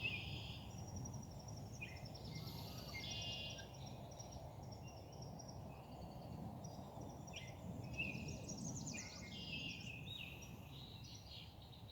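Songbirds calling faintly, with short chirps and quick trilled phrases repeating throughout, over a low steady outdoor rumble.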